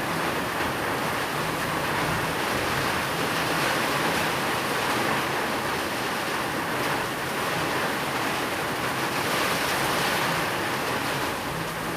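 Steady rain, an even hiss that swells and eases a little.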